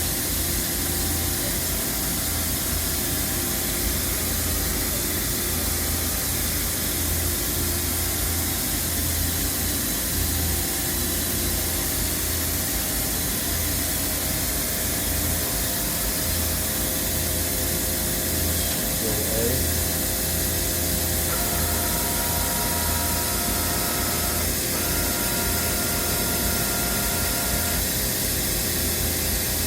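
Okuma MC-V4020 CNC vertical mill running under power, with a steady hiss and a low pulsing hum as the machine's axes are put through their moves. About two-thirds of the way through, a whine of several steady pitches sets in and lasts several seconds before stopping near the end.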